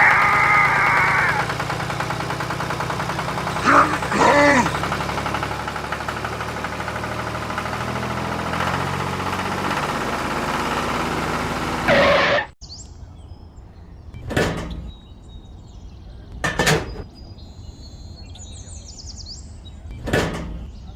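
A small engine running steadily, then cutting off abruptly about twelve seconds in. A few separate sharp knocks follow, a couple of seconds apart.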